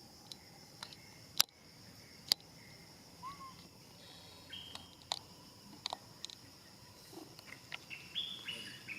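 A steady high insect drone, with scattered sharp clicks, the loudest two about a second and a half and two and a half seconds in, and short chirping calls near the end.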